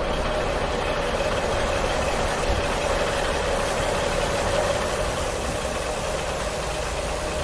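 Toy monster truck running as it drives: a steady motor drone with a constant hum, unchanging in level.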